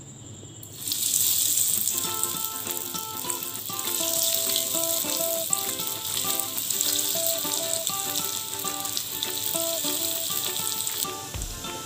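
Crumb-coated potato patties (aloo tikki) deep-frying in hot oil in a frying pan. A loud, crackling sizzle starts about a second in as the patties go into the oil, holds steady, and eases a little near the end.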